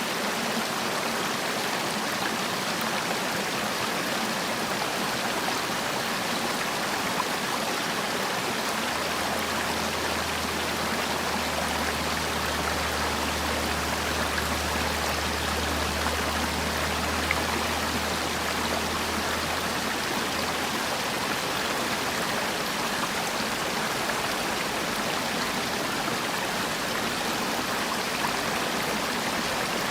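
Mountain valley stream rushing steadily over rocks, a dense, continuous water noise. A faint low rumble sits underneath from about nine to twenty seconds in.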